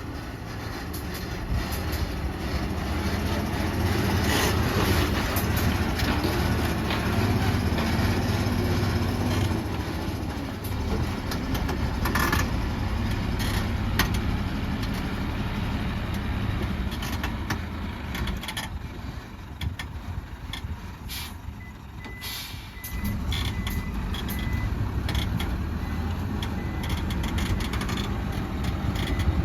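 Heavy diesel earthmoving machinery running under load. The low engine rumble swells and eases, with a few sharp knocks. A truck's reversing beeper sounds in a short run of beeps about two-thirds of the way through.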